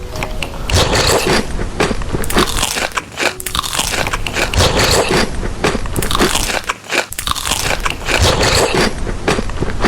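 A person biting and chewing crisp food: a dense run of crunches, with brief let-ups about three and seven seconds in.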